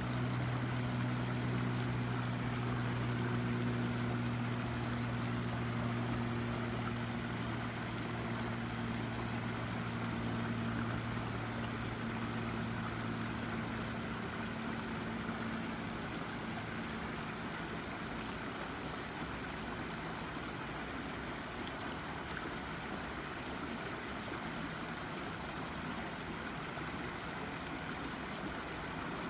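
Brook babbling over a rock: a steady rush and trickle of running water. A low steady hum sounds under it in the first half and fades out about halfway through.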